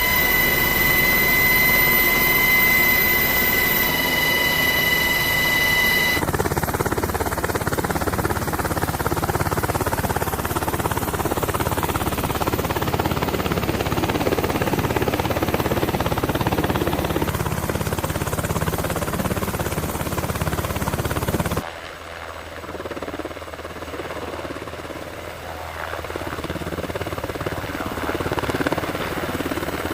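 Sikorsky HH-60G Pave Hawk helicopter running, with its twin turboshaft engines and rotors: a steady high whine for the first six seconds, then a rushing noise. The sound changes abruptly twice, dropping noticeably about three-quarters of the way through.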